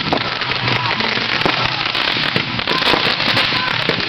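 Fireworks going off in a dense, unbroken barrage of rapid crackling pops and sharp reports, with no pause.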